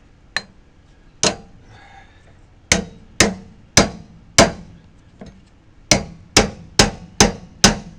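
Hammer blows with a ringing, metallic edge: two single strikes, then a run of four about half a second apart, a pause, and a run of five.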